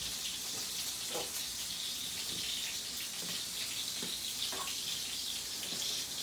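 Water running steadily from a sink tap in an even hiss.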